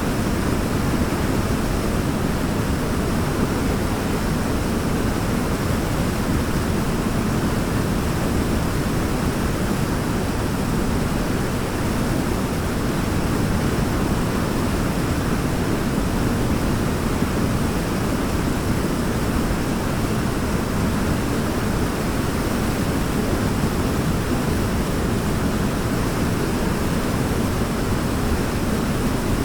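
Waterfall: a steady, unbroken roar of falling water, deepest in the low range.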